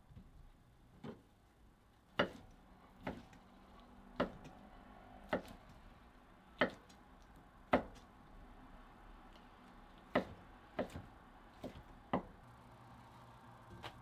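A series of about a dozen sharp knocks and taps from food preparation, roughly one a second and unevenly spaced, as utensils or food are set down or struck on a kitchen work surface.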